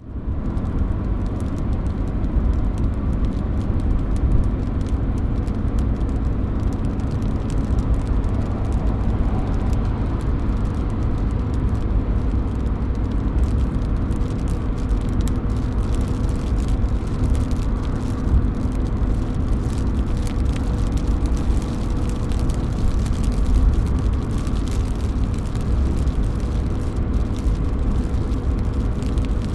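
Steady rain pouring and dripping off a roof edge, with a deep rumble underneath.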